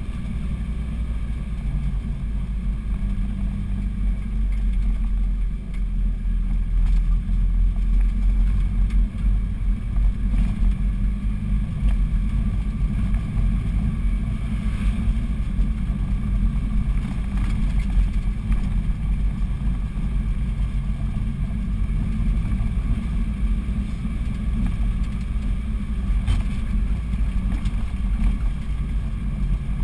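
Engine and road noise of a moving vehicle heard from inside its cabin: a steady low rumble with no sharp events.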